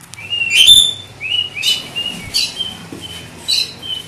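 Pet bird calling: a run of short, clear, high chirps, about two a second, the loudest about half a second in.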